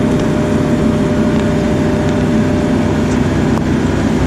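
John Deere 135 excavator's diesel engine running steadily under load with a thin steady tone above it, as the machine pushes a tree over to pull out its stump and root ball.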